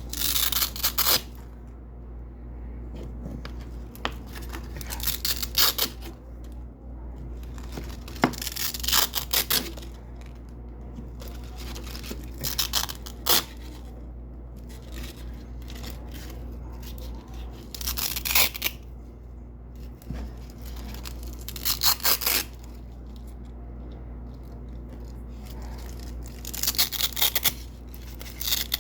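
Double-sided Velcro (hook-and-loop) strips being ripped off white hook tape: short, crisp tearing rips every few seconds, about seven in all.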